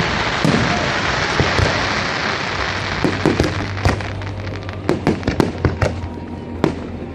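Fireworks going off: a dense crackling fizz that slowly dies away, with many sharp bangs and pops scattered through it, fewer and farther apart near the end.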